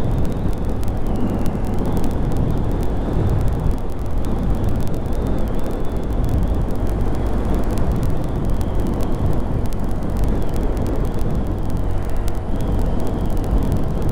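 Honda Grom 125's single-cylinder engine running steadily while riding, mixed with heavy wind rush on the microphone.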